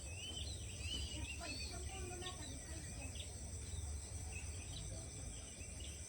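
Birds chirping in quick short calls over a steady high-pitched drone of insects, with a low rumble underneath.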